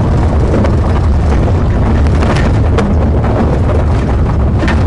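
Pursuing patrol car at high speed: a loud, steady rumble of engine, tyres and wind, with a few scattered clicks.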